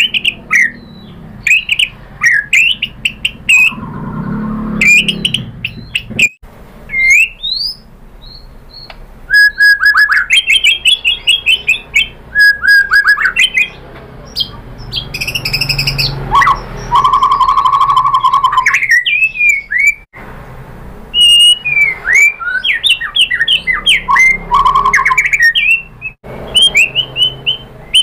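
White-rumped shama (murai batu) singing loudly: a long, varied run of clear sweeping whistles and rapid chattering trills, phrase after phrase with short pauses between them.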